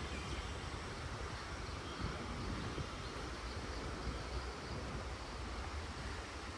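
Steady outdoor park ambience: a constant low rumble under an even hiss, with no distinct sounds standing out.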